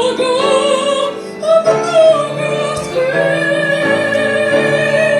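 A woman singing a Russian Gypsy romance in a full, vibrato-rich voice over instrumental accompaniment, ending on one long held note.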